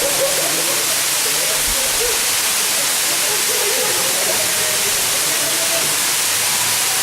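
Waterfall pouring: a steady, loud rush of falling water with no break.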